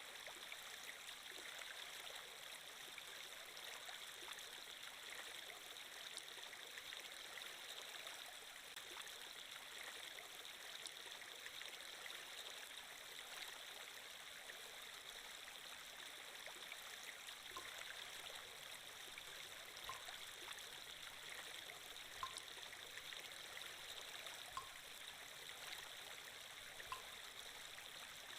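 Steady running-water sound effect, like a flowing stream, played at a low level. From a little past halfway, a faint short tick comes about every two and a half seconds.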